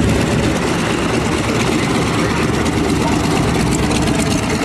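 Piston aircraft engine running steadily and loudly.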